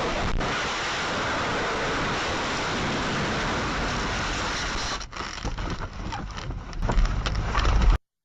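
Road and wind noise inside a moving car, picked up by a dashcam: a steady rush for about five seconds, then a run of uneven knocks and a louder burst near the end, after which the sound cuts off abruptly.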